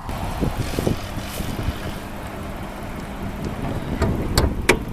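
A Ford Taurus 3.5-litre V6 idling under a rumble of handling and wind noise. Two sharp clicks come close together near the end.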